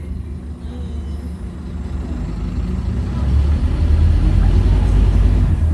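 Scania N230UD OmniCity double-decker bus's five-cylinder diesel engine running with a deep rumble that grows steadily louder, its pitch rising a little as the bus pulls away.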